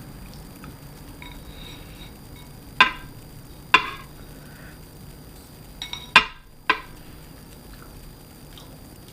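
Five sharp clinks of tableware against a dish, each ringing briefly. They come in two groups, two about a second apart and then three close together around six seconds in.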